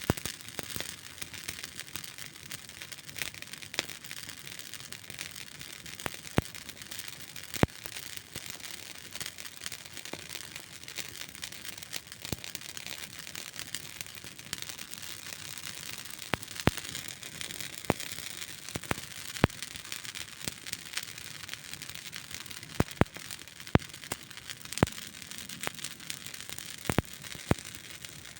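Wood campfire burning with a steady hiss and irregular crackling, many sharp pops scattered throughout.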